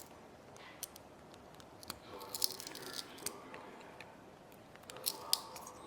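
Small, sharp clicks and light taps of hand tools working on a disassembled 6th-generation iPod nano, coming in clusters about two seconds in and again about five seconds in.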